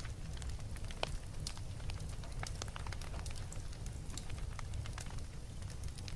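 Wood fire crackling in a fireplace: irregular sharp pops and snaps over a steady low rumble of the flames, with one louder pop about a second in.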